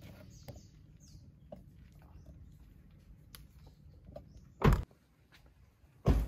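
Two car doors shutting, one thud about three-quarters of the way in and a second about a second and a half later, over faint rustling and light ticks.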